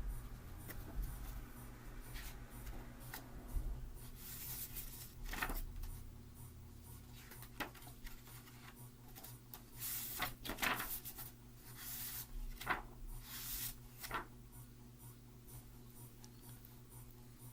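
Book pages being handled and turned: several short papery rustles over a few seconds, against a low steady room hum.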